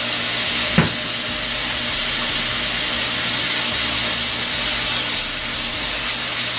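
Kitchen tap running steadily as hands are washed under the stream, with one short knock just under a second in.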